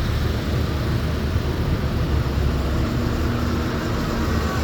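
Tractor engine running steadily with a low rumble; a faint steady hum joins about halfway through.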